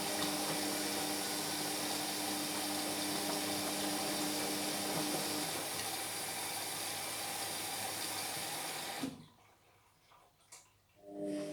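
Indesit MyTime washing machine running with a steady rush of water and a pump hum, which cuts out abruptly about nine seconds in. After a short near silence, a new motor hum starts just before the end.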